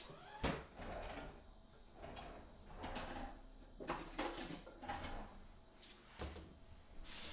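Kitchen handling noises: several separate knocks and clunks, with rustling in between, as things are moved about and set down on a kitchen counter.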